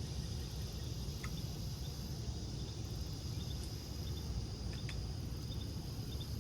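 Steady chorus of insects chirring high and continuous, over a low rumble, with a couple of faint clicks about a second in and near five seconds in.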